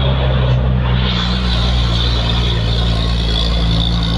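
Old truck's engine running on a steep climb: a loud, steady low drone, with a hiss that builds about a second in.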